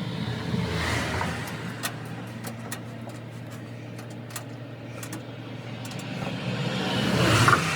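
Highway traffic passing by: one vehicle goes past about a second in and a louder one near the end. Under them runs a steady low engine hum, with scattered light clicks.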